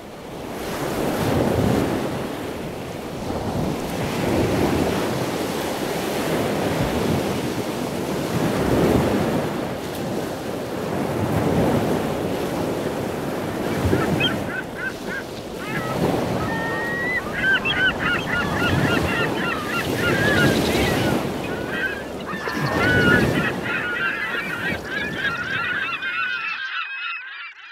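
Surf breaking on a sandy beach, the wash swelling and ebbing every few seconds. From about halfway through, birds call over the waves again and again, and near the end it all fades out.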